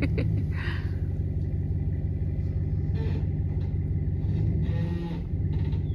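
A vehicle engine running steadily with a low rumble, set to pull a fallen tree by a strap. The rumble drops briefly about five seconds in.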